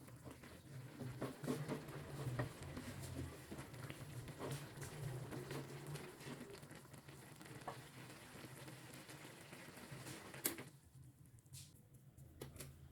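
Faint stovetop cooking sounds from a pot of noodle soup: a soft sizzling bubble with scattered light clicks of a utensil, over a low steady hum. The cooking noise drops away about ten and a half seconds in.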